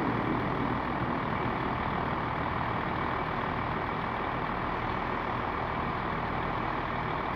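Class 158 diesel multiple unit's underfloor diesel engine running steadily, a constant low rumble.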